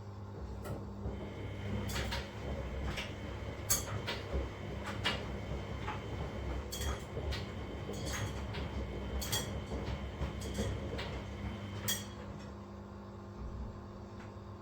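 Front-loading washing machine in its wash phase: the drum tumbles laundry with a steady motor hum and rumble, and sharp knocks and clicks come about once a second as the load falls against the drum. The knocking stops about two seconds before the end, as the drum pauses.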